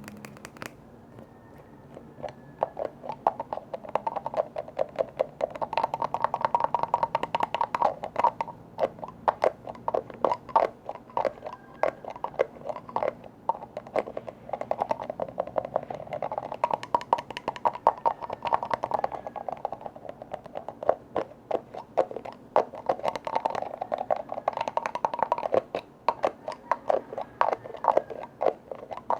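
Rapid tapping on a container, many taps a second with a hollow ring, coming in waves. It starts about two seconds in.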